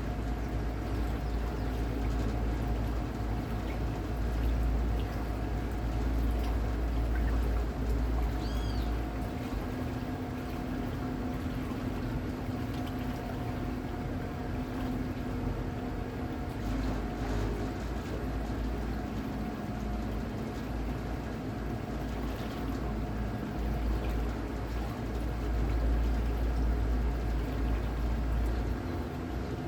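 Water splashing and trickling along a boat's hull, with a steady faint hum underneath. Wind buffets the microphone in two long stretches, one at the start and one from about the middle to near the end.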